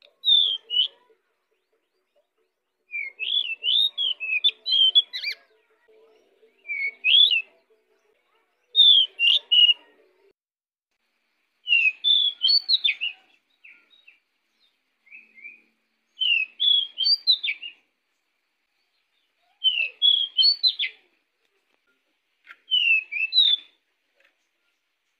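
Pied bushchat (decu) in full song: about nine short, fast phrases of high whistled, warbling notes, each a second or two long, with brief pauses between.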